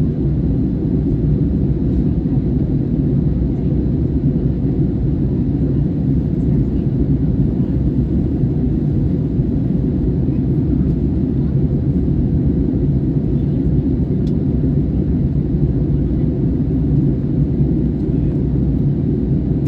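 Airliner's steady low rumble during landing, unchanging in level throughout.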